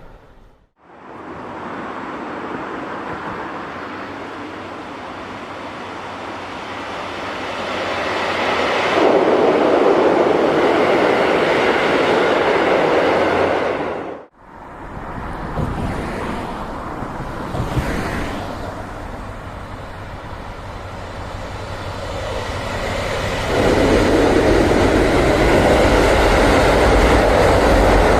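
Trains passing on the tracks: a rumble builds to a loud pass, breaks off sharply about fourteen seconds in, then another train approaches and grows loud near the end.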